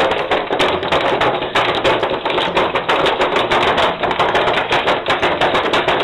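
Clear plastic packaging crinkling and crackling in quick, irregular clicks as a small dog noses and paws at it.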